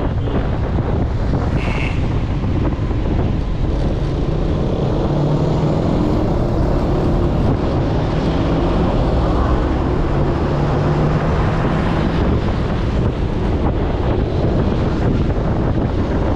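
Wind buffeting the microphone in a steady, loud rumble, with a low hum underneath that comes and goes.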